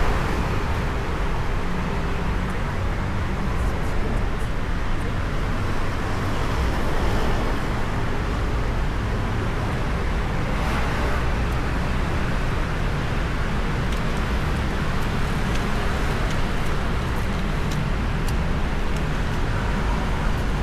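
Steady road traffic noise on a city street: a continuous rumble of passing cars and other vehicles.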